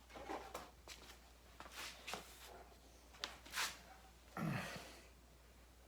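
Faint scattered rustles and light clicks from handling in a small room, with one short, louder breathy sound about four and a half seconds in.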